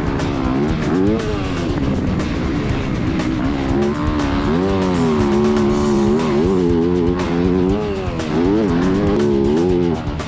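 Dirt bike engine revving hard and falling back again and again, its pitch climbing and dropping as the rider shifts and rolls on and off the throttle around the track.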